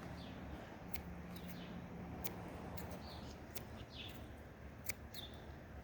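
Scissors snipping through chive stems, a few sharp snips spaced a second or so apart, with short bird chirps in the background.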